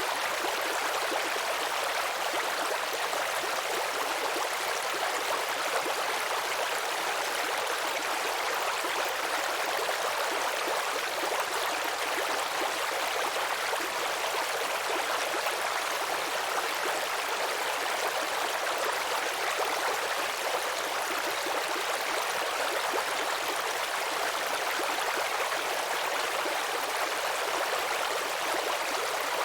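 Babbling brook: water trickling and gurgling over stones in a steady rush with no pauses.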